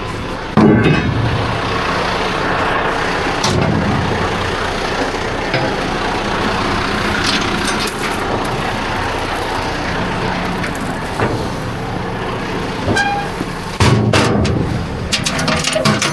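Diesel truck engine running steadily, with a few sharp metal knocks and clinks from load securement gear.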